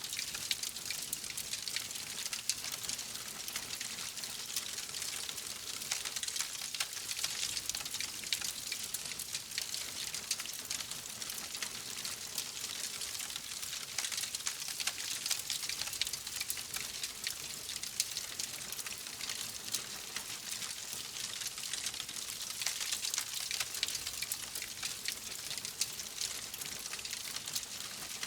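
Wood fire crackling in a fireplace: many small pops and snaps over a steady hiss of burning.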